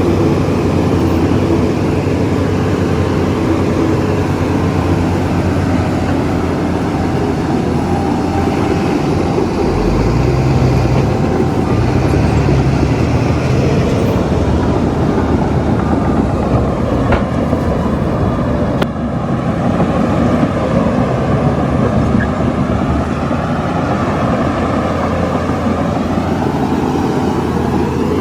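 Heavy diesel earthmoving machinery running, a steady loud engine rumble. The low rumble swells for a few seconds about ten seconds in, and there is a single sharp click near the end.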